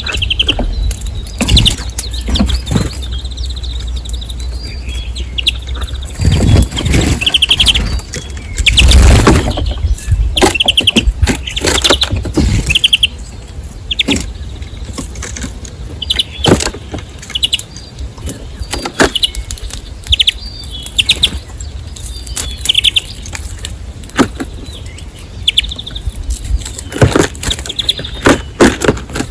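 Small birds chirping in short, repeated chirps, over a steady low rumble with scattered sharp knocks and taps. A louder stretch of rumbling noise comes from about six to thirteen seconds in.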